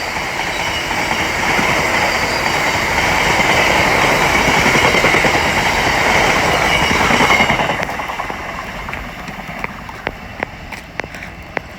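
Freight train wagons rolling past at speed behind a Class 66 diesel, wheels clattering over the rail joints with a steady high ring from the wheels. The noise falls away about seven and a half seconds in as the end of the train passes, leaving a few scattered clicks.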